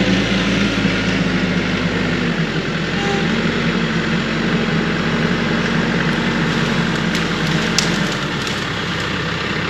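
TYM compact tractor's diesel engine running steadily. Its note shifts about two seconds in and again near the end.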